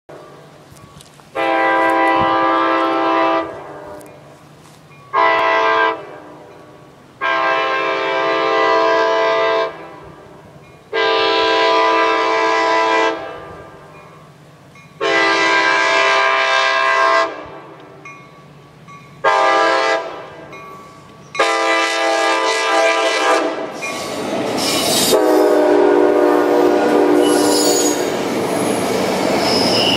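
ACE commuter train's locomotive horn sounding a series of seven blasts, mostly long with two short ones, as the train approaches. The train then rolls past close by with loud rumble and clatter, the horn still sounding, and a high wheel squeal near the end.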